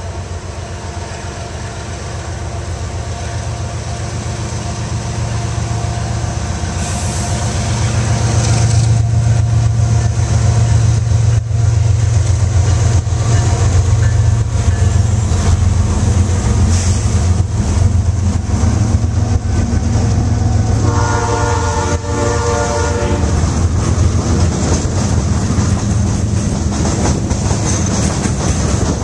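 Freight train passing close by: Canadian Pacific diesel locomotives run loudly, their engine sound building over the first several seconds as they approach, then covered hopper cars roll past with wheel noise on the rails. A train horn sounds for about three seconds around three quarters of the way through.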